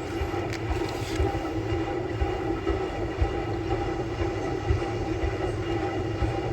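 Samsung Bespoke Grande washing machine running its quick wash course: a steady motor hum with irregular low thumps as the drum turns the laundry.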